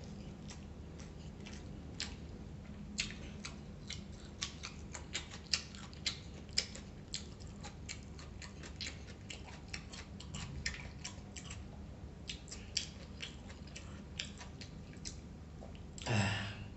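Close-up mouth sounds of a person eating nasi lemak with fried chicken by hand: chewing with many small wet clicks and lip smacks over a low steady hum. A brief louder vocal sound, falling in pitch, comes near the end.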